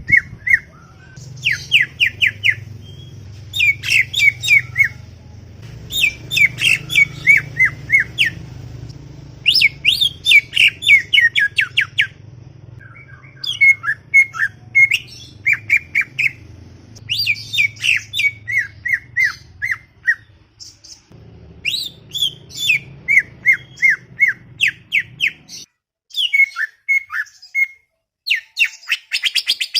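Green leafbird (cucak ijo) singing a busy, chattering song: rapid runs of quick descending notes in phrases of a second or two, with short pauses between them. A faint low hum lies underneath and cuts out near the end.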